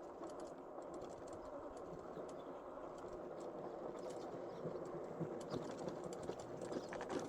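Faint, steady riding noise from a Philodo Falcon e-bike rolling along a street: a low hum with a faint steady tone under it and scattered light clicks and rattles.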